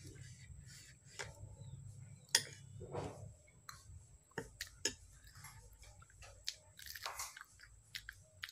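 A person chewing and biting a mouthful of kelichana (spiced chickpeas) close to the microphone, with irregular crunches and clicks. The loudest is a sharp click about two and a half seconds in.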